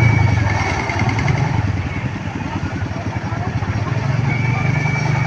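An engine running steadily, with a steady high-pitched tone sounding over it in the first two seconds and again near the end.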